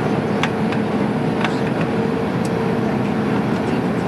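Cabin noise of an Airbus A310 in flight: a steady rush of air and engine noise with a faint constant hum running through it, and a few light clicks.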